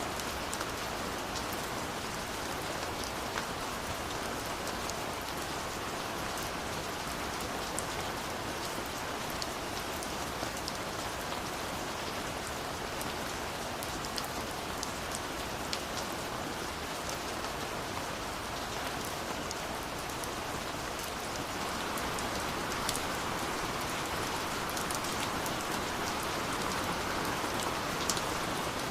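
Steady rain falling, a dense hiss with many separate drops ticking, growing slightly heavier about two-thirds of the way through.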